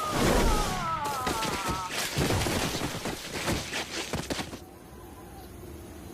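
Cartoon slapstick sound effects: falling whistle glides, then a rapid string of bangs and crashes that stops about four and a half seconds in.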